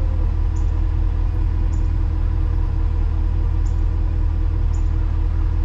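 Tow truck engine idling with a steady low rumble, and a faint click about once a second.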